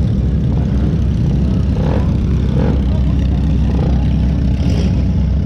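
Off-road buggy engine running steadily, a loud close-up low rumble with no gaps, with faint voices briefly in the background.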